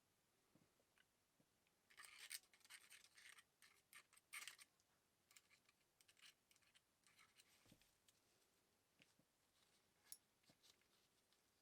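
Faint, irregular scratching with small clicks, busiest between about two and four and a half seconds in, then sparser.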